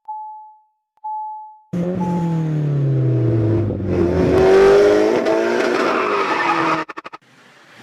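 Three short electronic beeps about a second apart, then a loud car engine and tyre-screech sound effect with the engine pitch sliding down. It cuts off suddenly near the end.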